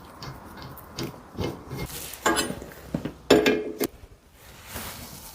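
A few separate metal clinks and knocks as steel hydraulic hose fittings are handled, one with a brief ring about three seconds in.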